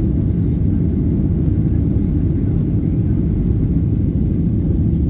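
Airliner engines and airflow heard inside the passenger cabin as a steady, loud, low rumble during the takeoff climb.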